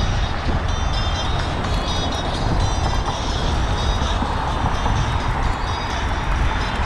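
Steady wind buffeting an action camera's microphone on a moving bicycle at about 10 to 12 mph, with the rumble of tyres on a paved trail.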